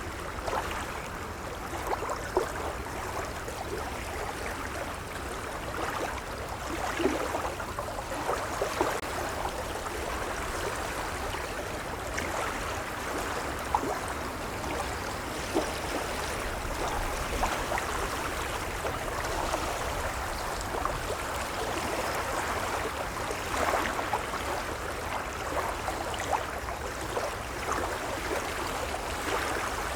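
Gentle waves lapping: a steady wash of water broken by many small splashes and gurgles, with a low rumble underneath.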